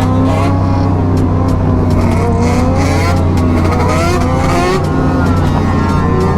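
Several motorcycle and dirt bike engines revving up and down together, their pitches rising and falling, over the steady drone of the rider's own motorcycle.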